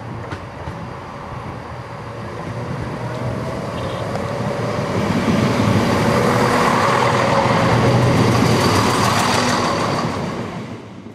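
CrossCountry Class 170 Turbostar diesel multiple unit running into the platform, its diesel engines and wheels growing louder as it draws close and passes, with a thin steady whine over the noise, then fading near the end.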